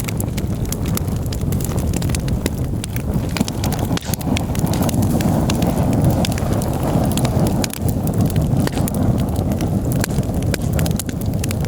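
Campfire crackling, with many sharp, irregular pops and snaps of burning wood over a steady low rumble.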